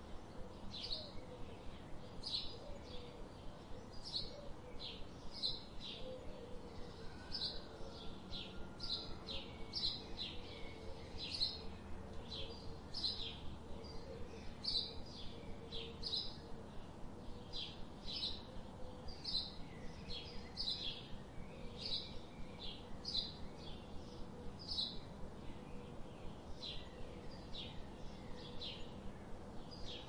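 Small songbirds chirping: a steady stream of short, high chirps, about two a second.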